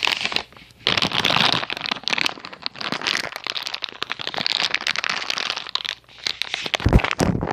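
Close, irregular crinkling and rustling of something being handled, with a sharp low thump about seven seconds in.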